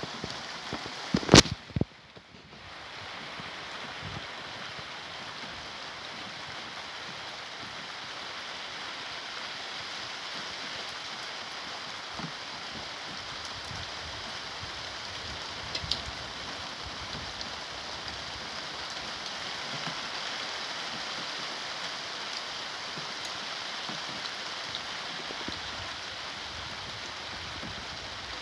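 Heavy rain in a downpour, a steady dense hiss of falling drops. A couple of sharp knocks about a second in are the loudest sounds.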